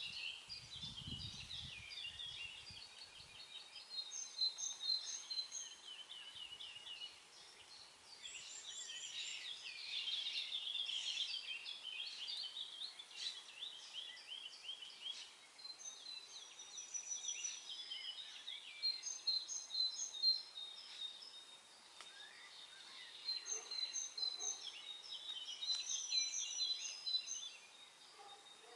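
Several songbirds singing over one another, a steady dawn-chorus-like mix of high chirps, trills and repeated short notes that swells and eases throughout. A faint low rumble in the first few seconds.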